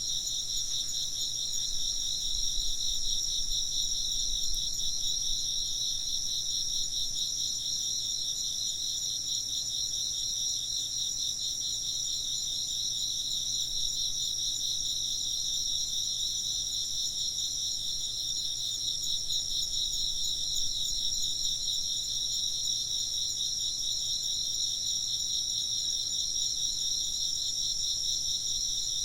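A chorus of chirping insects: a continuous, high-pitched trilling with a fast, even pulse that holds steady throughout.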